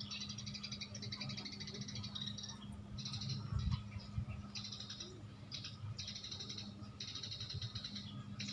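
House sparrows chirping in fast, chattering runs. The chatter is continuous at first, then comes in short bursts with gaps from about two and a half seconds in. A brief low bump about three and a half seconds in.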